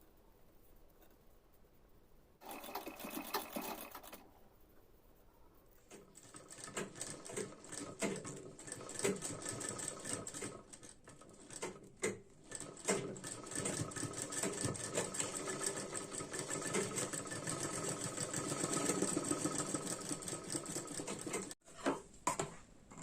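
Sewing machine stitching: a short run about two and a half seconds in, then a long continuous run from about six seconds in that stops suddenly near the end.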